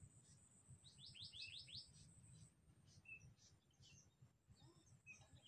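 Small birds chirping faintly: a quick run of about five chirps about a second in, then scattered single chirps.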